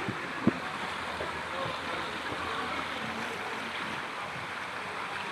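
Steady rush of moving water, with one sharp knock about half a second in.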